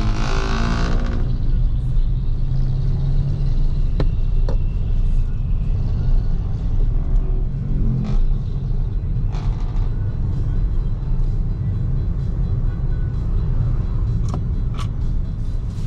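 Steady low road rumble of a BYD Seagull electric car driving in city traffic, with no engine note, only tyre and road noise. A brief pitched sound comes in the first second, and a few light clicks follow.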